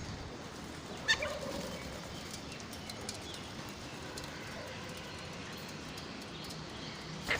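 Bird sounds: a sharp click and a short high chirp about a second in, then a brief low wavering call, over steady background noise, with another click near the end.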